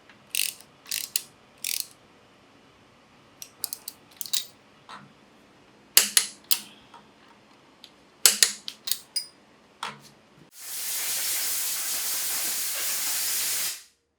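Sharp clicks and clinks of hand tools and engine parts being handled during Porsche 964 Turbo engine assembly, a dozen or so scattered over about ten seconds. Then a loud, steady hiss of air lasting about three seconds, which stops abruptly near the end.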